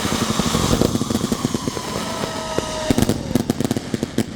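A long string of firecrackers going off in a rapid, continuous crackle, so dense that the pops run together into a buzz.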